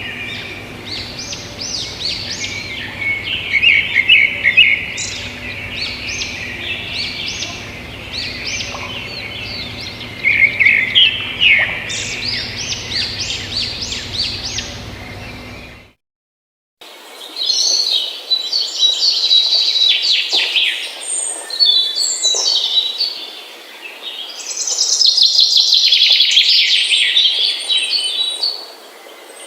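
Birds chirping and singing: many quick chirps and trills. About halfway through the sound cuts out abruptly for under a second, then a second stretch of birdsong follows, busiest near the end.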